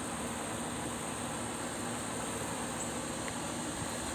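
Steady background hum and hiss with a thin, steady high-pitched drone over it, unchanging throughout.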